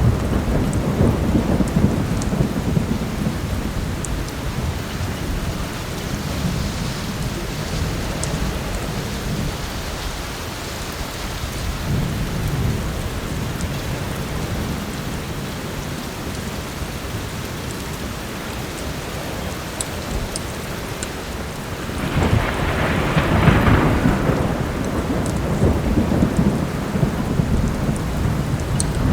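Steady heavy rain with rolling thunder rumbling underneath, swelling several times, loudest about three quarters of the way through. There are a few faint crackles from a wood fire.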